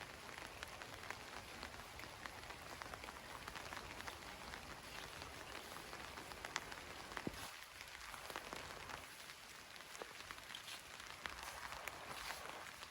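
Light rain pattering: a soft even hiss with many small, irregular drop ticks.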